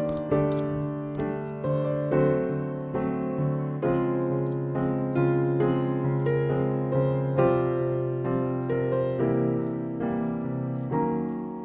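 Background piano music: a gentle melody of notes about every half second over held bass notes.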